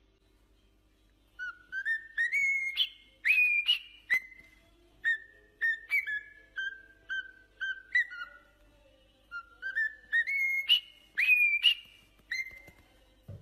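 Pet bird whistling a tune of short, clear notes: a rising run, then a repeated falling phrase, a brief pause, and the rising run again.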